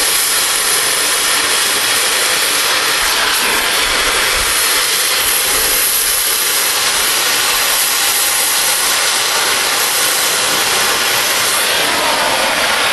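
Oxy-fuel cutting torch flame-cutting a steel railroad rail: a loud, steady hiss.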